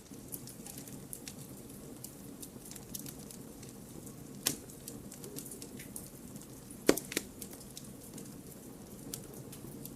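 Wood campfire burning: a steady low rush of flames with scattered crackles and pops, the sharpest a pop about four and a half seconds in and two close together around seven seconds.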